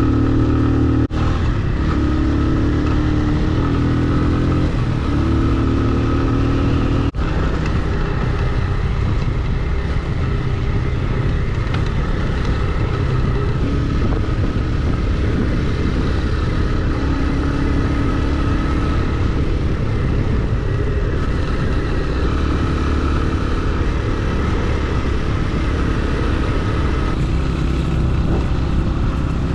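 Motorcycle engine running steadily while riding along, with road noise. There are two very brief breaks in the sound, about a second in and about seven seconds in.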